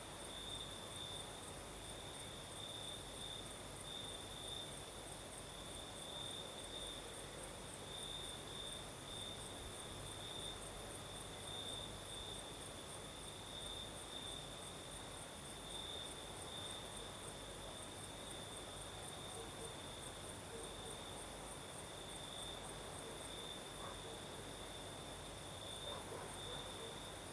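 Crickets chirping in a steady, pulsing night chorus. One trill sits at a middle-high pitch, and a second, much higher-pitched trill runs above it.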